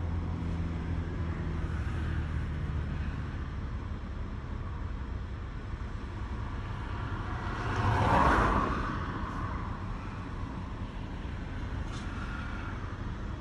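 A vehicle's engine running steadily, heard from inside the cab as a low hum. About eight seconds in, a passing vehicle swells and fades.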